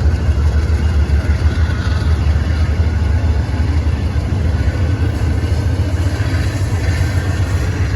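Wind buffeting the microphone in a heavy, fluttering low rumble, over the steady running of a train's engine.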